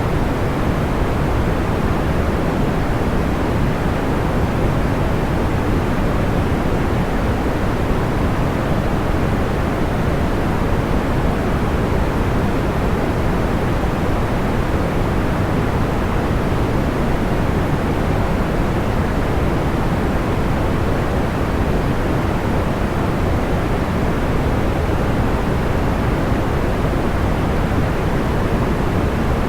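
Steady, even white-noise sleep sound, deep and low-weighted like a soft rushing hiss, with no distinct crackles or pops.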